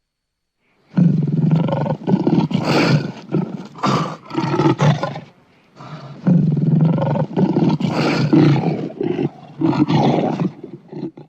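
African lion roaring in two bouts, the first starting about a second in and the second just past the middle, each a run of several deep, loud calls with a short gap between the bouts.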